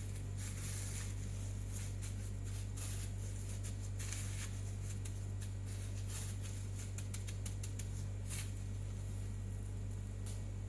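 Kitchen cooking sounds: irregular light crackling and clicking over a steady low hum.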